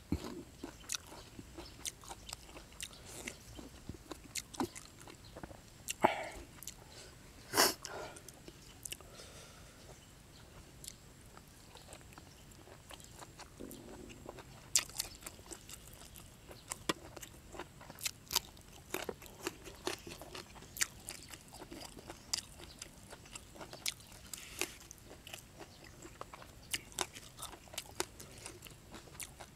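A man chewing a mouthful of crunchy food close to the microphone: a steady run of short crisp crunches and wet mouth clicks, with two louder crunches about six and seven and a half seconds in.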